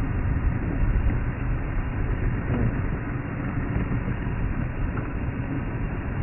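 Safari game-drive vehicle driving along a dirt track: steady engine and road rumble.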